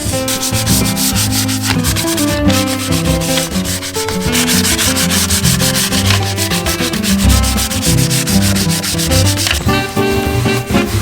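Sandpaper rubbed back and forth over wood in quick, repeated strokes, heavier from about four seconds in until shortly before the end, over background guitar music.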